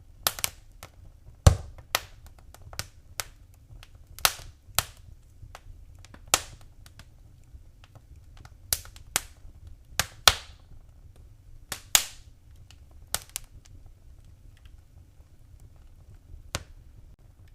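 Wood fire in a fireplace crackling: irregular sharp pops, some louder than others, with the strongest about a second and a half in, over a faint low rumble.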